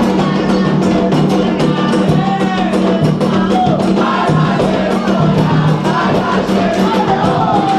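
Candomblé ceremonial music: atabaque hand drums played in a fast, continuous rhythm under group singing of a chant for the orixá Oyá.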